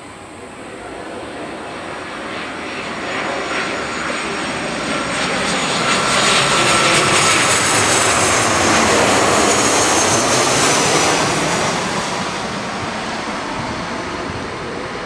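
Boeing 737 jet airliner on landing approach passing close by, its CFM56 turbofans growing louder to a peak in the middle and then fading, with a high whine that drops in pitch as it goes past.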